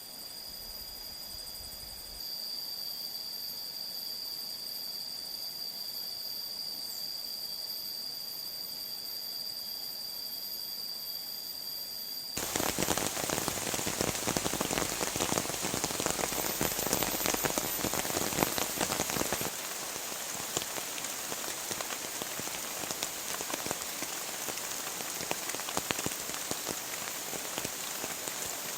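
Heavy rain falling: a dense patter of drops that starts abruptly about twelve seconds in and is loudest for the next seven seconds. Before it there is only a quiet hiss with a faint steady high-pitched whine.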